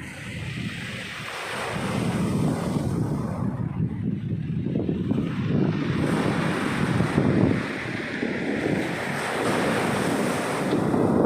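Black Sea surf breaking and washing on the shore, swelling and ebbing, with gusty wind buffeting the microphone.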